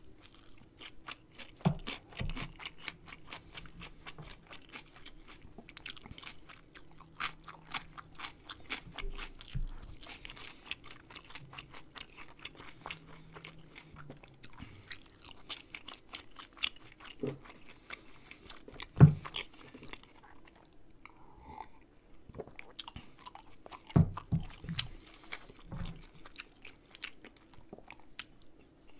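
Close-miked chewing of kimchi, rice and dumpling soup: steady crunching and wet mouth clicks, broken by a few dull knocks, the loudest about two-thirds of the way through.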